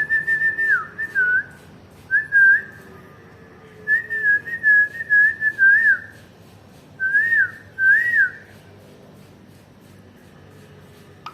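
Ringneck parrot whistling a warbling tune in several short phrases with quick dips in pitch, stopping about two-thirds of the way through.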